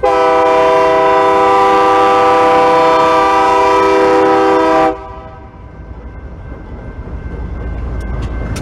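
Freight locomotive's air horn sounding one long, loud blast of several tones at once, cutting off about five seconds in. Afterward the low rumble of the approaching train grows steadily louder.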